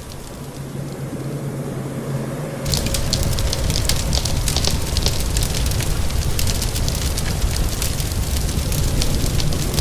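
Fireplace fire crackling with dense, sharp pops over a steady rain-like hiss. The crackling and a low rumble come in abruptly about three seconds in; before that there is only a quieter hiss with a low hum.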